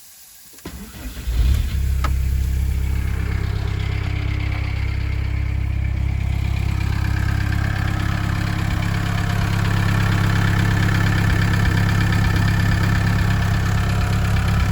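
1988 Volkswagen T3 Transporter Synchro engine cranking and catching about a second in, then idling steadily through its newly fitted exhaust pipe.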